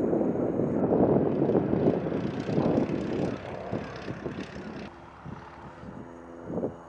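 Light propeller airplane's piston engine going by: a loud, rough engine rush, easing after about five seconds into a quieter, steady droning hum.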